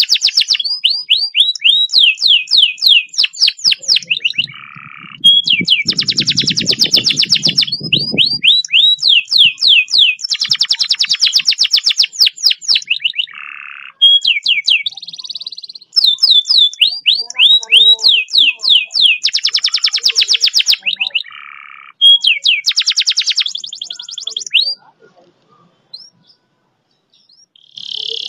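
Domestic canary singing long, fast rolls: phrases of rapid, evenly repeated sweeping notes alternate with dense buzzing trills, broken by short pauses, and the song stops about 25 seconds in. A low rumbling noise sits briefly under the song about five to eight seconds in.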